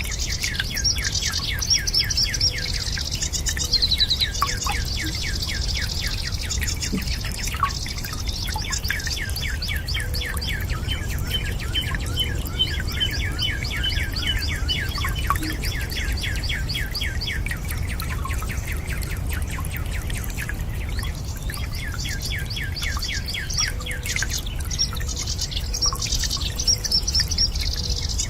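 Songbirds singing in long, fast trills of quick down-slurred chirps over a steady low water rush, with a few faint drips.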